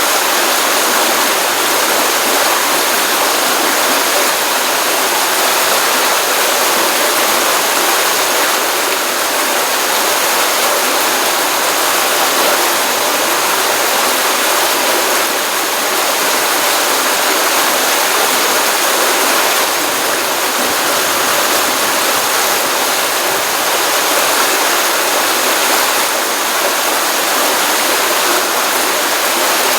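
Small stream of water running and splashing steadily, a continuous rushing noise without breaks.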